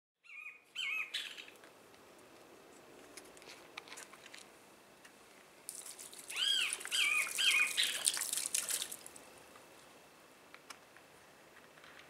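Birds calling: a couple of short rising-and-falling notes at the start, then from about six to nine seconds a dense high chatter with a run of four or five arched calls over it.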